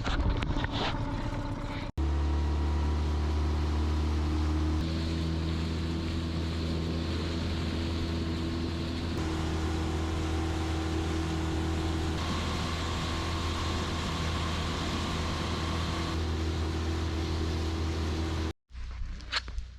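An engine running steadily at an even speed, a low hum with a steady pitch, in several spliced stretches that shift slightly in tone and end with an abrupt cut near the end.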